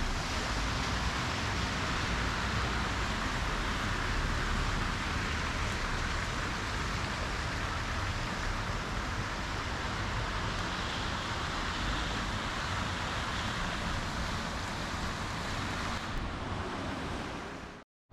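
Steady hiss of falling rain, cut off abruptly near the end.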